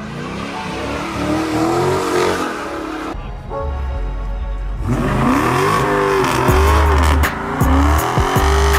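Car engine revving up and down in repeated bursts, over music with a heavy bass beat.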